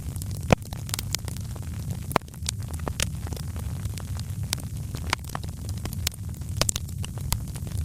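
Wood fire crackling in a fireplace: a steady low rumble of flames with irregular sharp pops and snaps, a few of them louder.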